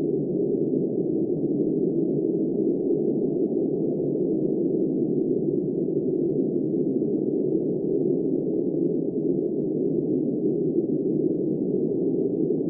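Blizzard wind blowing steadily as a muffled, deep rushing sound with no hiss or high tones, unchanging in strength.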